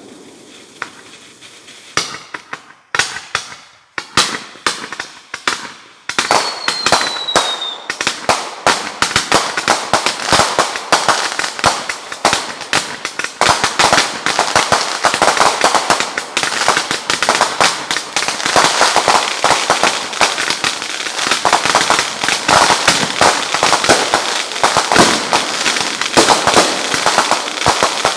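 Fireworks going off: a few separate bangs, then from about six seconds in a dense, continuous crackle of rapid pops. A short falling whistle sounds just as the crackle begins.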